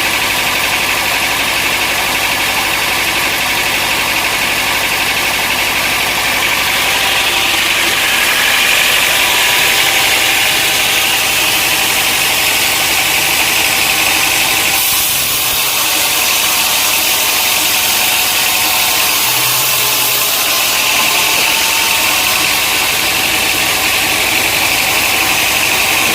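Sawmill machinery running steadily with a loud, even noise, changing in tone about fifteen seconds in.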